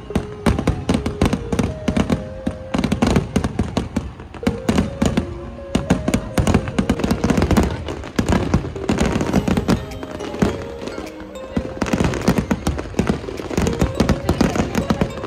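Fireworks going off in rapid, dense succession, sharp bangs and crackles following one another, with music playing over them.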